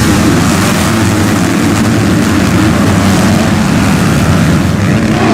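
Motocross motorcycle engines running at high revs, several at once, loud and steady.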